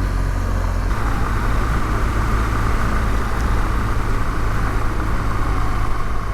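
Adventure motorcycle riding along a gravel road: a steady deep rumble of engine and road noise. A higher hiss grows stronger about a second in.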